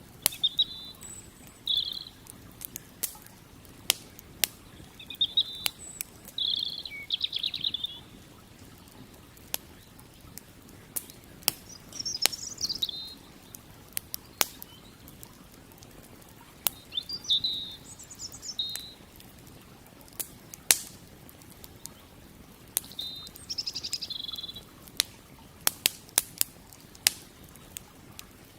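Wood campfire crackling with sharp pops and snaps scattered throughout, while a bird sings short chirping phrases about five times over a steady low rush.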